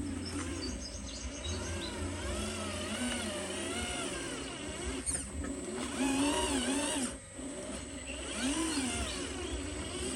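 Small electric motors of radio-controlled model construction vehicles whining, their pitch rising and falling again and again as the throttle changes, over a low rumble.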